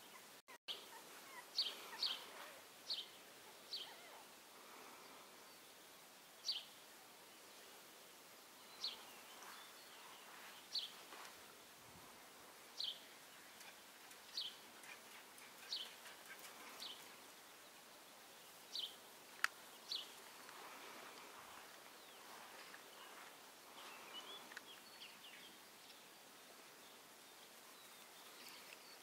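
A bird repeating a short, high chirp every second or two, sometimes two calls close together, over a faint steady background hiss.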